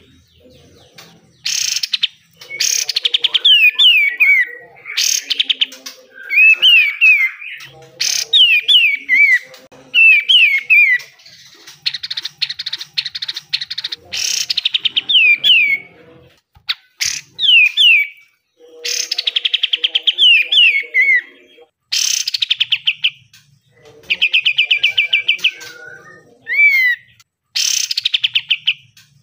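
Kapas tembak (katem) songbird singing in repeated bursts. It alternates quick falling whistled phrases with fast rattling runs of notes, the churring "besetan" calls.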